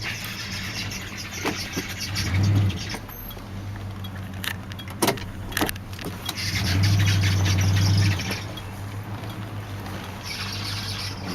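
1993 Lincoln Town Car's 4.6-litre V8 running as the car is moved a short distance, the engine note swelling briefly about two seconds in and again for over a second around the middle. A high squealing noise comes and goes along with it, and there are scattered clicks.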